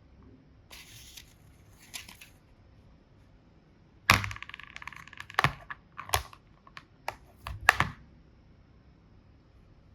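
Sharp clicks and crackles of plastic boxes being handled, coming in a cluster from about four to eight seconds in, one of them with a brief squeak. Two faint rustles come before them.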